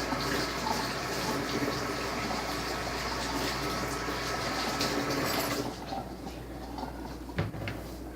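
Water running steadily, then stopping about five and a half seconds in; a single knock follows shortly before the end.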